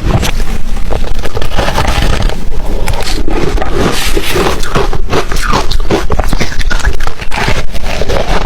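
Ice being bitten and chewed in the mouth: a rapid, irregular run of loud crunches.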